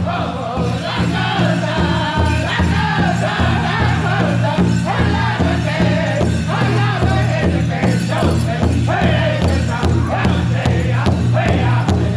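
Pow wow drum group singing together over a steady, evenly spaced beat on a big drum.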